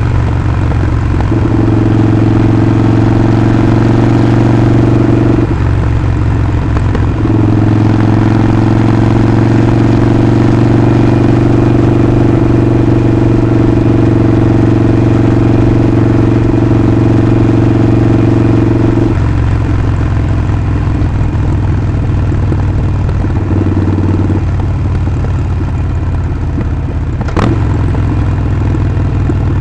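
Harley-Davidson Sportster 48's air-cooled 1200 cc V-twin running under way, holding steady engine speeds for several seconds at a time with a few changes of throttle or gear. There is one brief click near the end.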